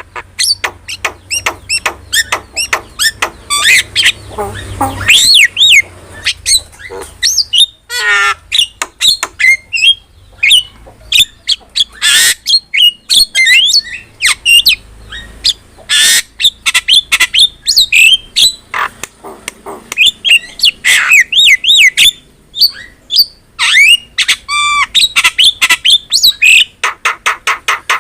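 Javan myna (jalak kebo) singing without pause: a fast, varied run of harsh squawks, sharp clicks, whistles that slide up and down, and a few rapid warbling trills.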